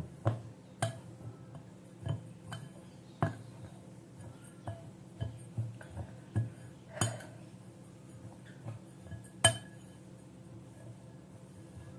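A metal spoon clinking irregularly against the sides of a bowl while stirring dry seeds and oats, about a dozen ringing taps spaced unevenly, the loudest near the end.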